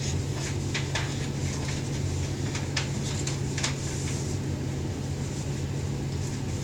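Steady low hum with a few short, crisp crackles and taps of paper being creased and folded into paper airplanes.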